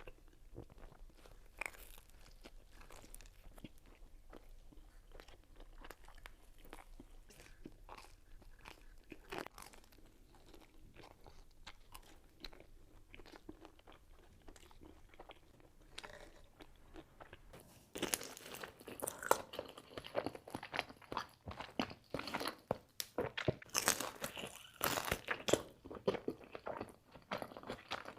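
Close-miked eating of pizza: chewing and biting with crisp crust crunching. Soft, steady chewing sounds give way about 18 seconds in to much louder, denser crunchy bites.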